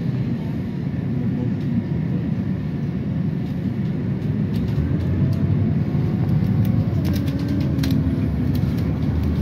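A city public-transport vehicle running, heard from inside: a steady low rumble with a faint motor whine that rises and falls, and a run of rattling clicks in the second half.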